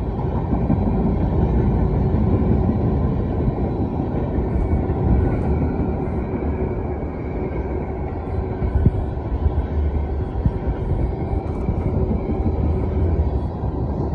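A freight train's tank cars rolling past at speed: a steady, heavy rumble of wheels on rail, with several sharp knocks from the wheels in the later part.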